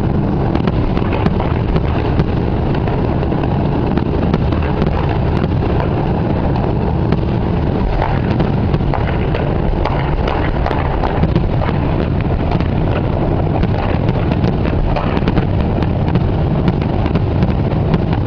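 Steady, loud rumble of a dense fireworks barrage, with many small cracks and pops throughout and wind buffeting the microphone.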